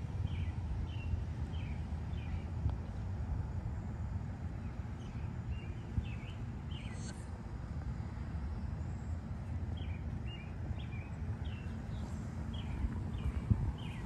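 Outdoor ambience: a bird gives series of short, quick chirps, over a steady low rumble.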